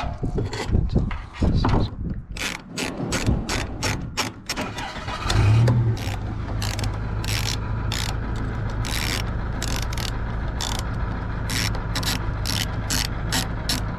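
Irregular clicking and knocking of hand tools, ratchet-like, while the nozzle motor of a Scag Windstorm stand-on blower is being replaced. About five seconds in an engine starts with a brief surge and settles into a steady idle, while the clicking carries on over it.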